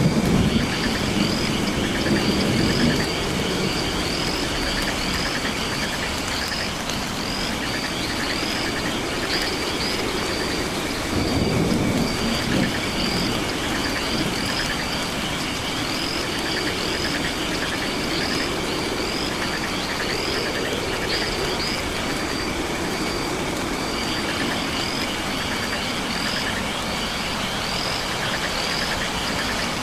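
Night rainforest ambience: frogs and insects calling, with a high chirp repeating about twice a second over a steady trilling chorus and an even hiss. There are low rumbles at the start and again about eleven seconds in.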